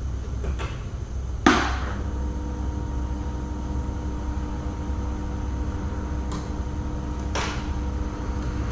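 Two sharp knocks about six seconds apart, the first the louder, over a steady low rumble, with two fainter clicks. A faint steady hum of several tones comes in just after the first knock.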